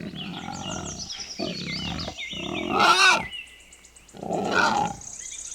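Wild boar giving four rough grunting calls, the third the loudest, with faint high chirping in the background.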